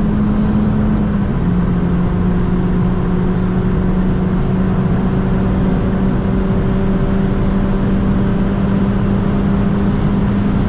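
Mini Clubman JCW R55's turbocharged 1.6-litre four-cylinder engine pulling at full throttle through a high-speed acceleration run, heard from inside the cabin. The engine note dips slightly about a second in, then climbs slowly and steadily.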